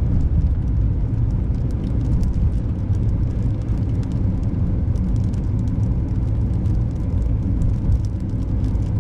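Car driving on a snowy, icy road: a steady low rumble of tyres and engine, with scattered faint ticks.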